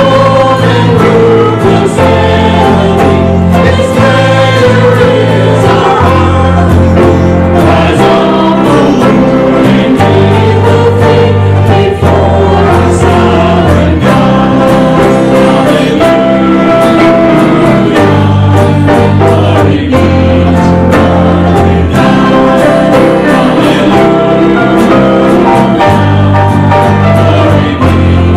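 Congregation singing a hymn together with instrumental accompaniment, over steady bass notes that change about every two seconds.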